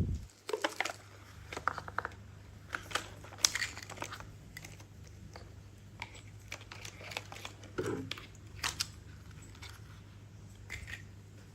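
Scattered light clicks, taps and rustles of small toys being handled, irregular and unevenly spaced, over a steady low hum.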